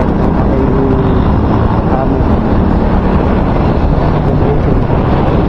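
Heavy wind buffeting on the microphone: a loud, steady low rumble that stays strong even though the microphone is wrapped in electrical tape.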